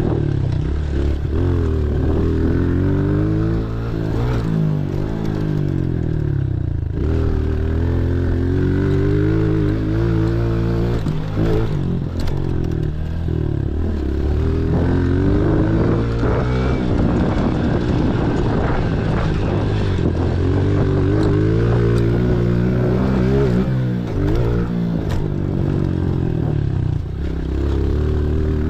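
Pit bike engine revving up and easing off again and again as the bike rides laps, its pitch rising and falling every few seconds.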